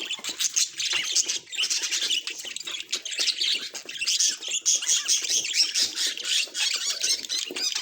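Budgerigar chattering: a dense, continuous run of quick high chirps and squawks.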